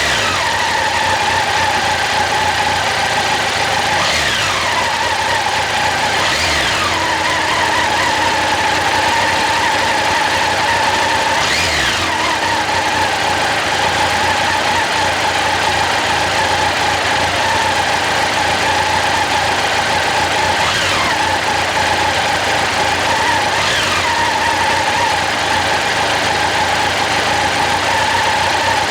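Honda CB1100SF X-11's liquid-cooled inline-four engine running at idle, with a steady high whine and a few brief rises in engine speed that fall back.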